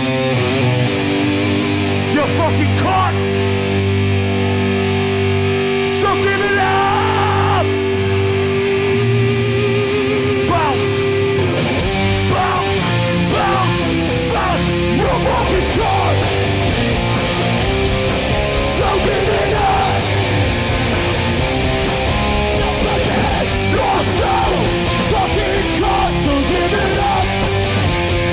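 Hardcore punk band playing live with no vocals: distorted electric guitars hold ringing notes, then the full band with drums comes in hard about twelve seconds in.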